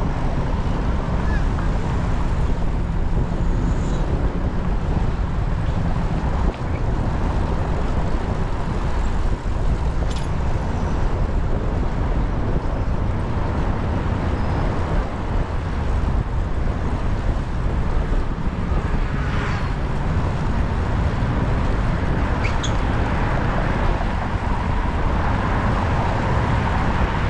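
Steady rush of wind and road noise on a moving bicycle's action-camera microphone, with city traffic around.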